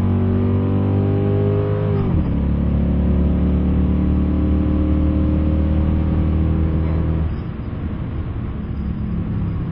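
Car engine at full throttle, its pitch climbing steadily. It drops sharply on an upshift about two seconds in, then climbs again through the next gear. Just after seven seconds the engine note falls away as the throttle is lifted.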